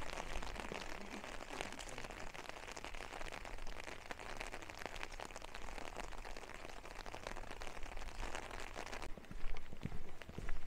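Heavy rain falling steadily, a dense hiss of countless small drop hits. About nine seconds in the higher hiss falls away and a few low thumps follow.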